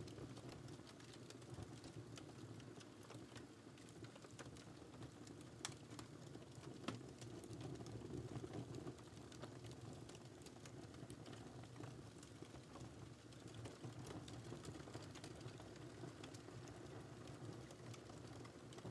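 Wood fire burning quietly: a low steady rumble of flames with small crackles and pops scattered throughout, and two sharper pops about six and seven seconds in.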